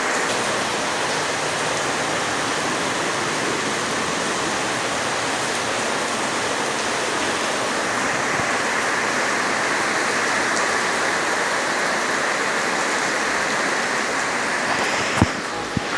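Steady rain falling, a heavy, even hiss. Near the end there are two short knocks.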